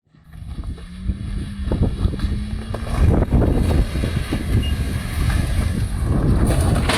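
A vehicle engine running with a steady hum that slowly rises in pitch. About three seconds in, a loud, irregular low rumble of wind buffeting the microphone takes over.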